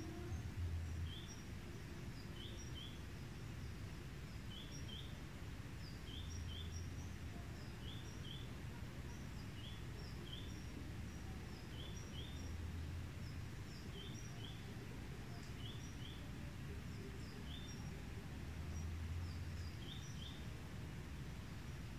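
Steady low background noise with a bird repeating a short, high two-note chirp every second or two.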